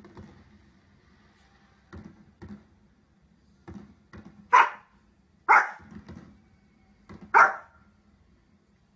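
Dog barking: three loud, short, single barks a second or two apart in the second half, after a few fainter short sounds in the first half.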